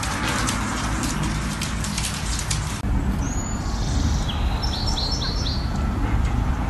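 A bird chirping: one short call, then a quick run of four falling chirps, over a steady low rumble. Light rapid ticking comes before the chirps.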